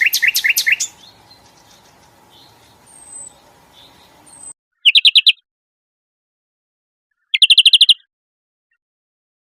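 Songbirds singing on an edited song-training recording. A fast series of repeated high notes runs for about the first second, then fades to faint background. After a sudden cut to dead silence, two short, rapid trills are spliced in, about five and seven and a half seconds in.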